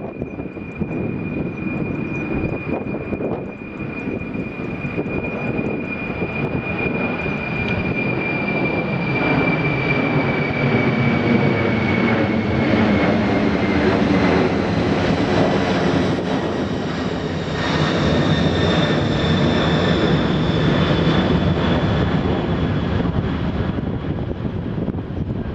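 Jet airliner's engines running close by: a high fan whine slowly falls in pitch over a heavy rumble that grows louder about a third of the way in and again after the middle.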